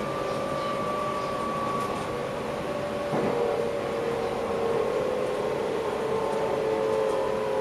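Electric passenger train running, heard from inside the driver's cab: a steady running rumble with several whining tones that drift slowly in pitch. A single knock comes about three seconds in, and the sound grows a little louder after it.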